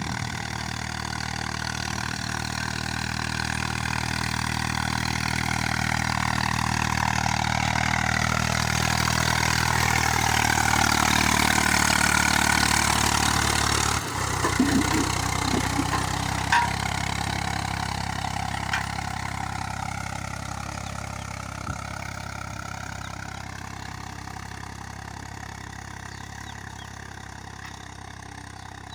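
Eicher 485 tractor's three-cylinder diesel engine running steadily. It grows louder for the first twelve seconds or so, gives a few knocks about halfway through, then slowly fades.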